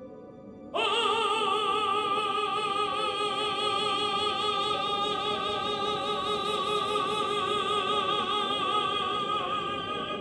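One long operatic note, sung and held with a wide, even vibrato for about nine seconds. It comes in suddenly just under a second in and stops near the end.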